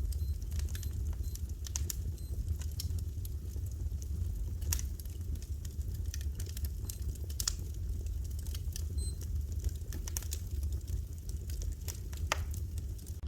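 Fire crackling in a fireplace: irregular sharp pops and snaps of varying strength, a few louder ones standing out, over a steady low rumble.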